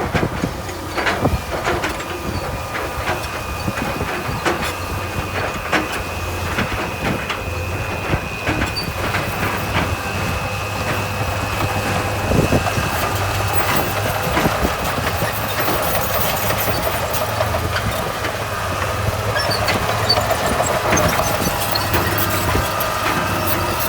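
Diesel engine of heavy earthmoving machinery running steadily under a constant high whine, with frequent metallic clanks and knocks throughout.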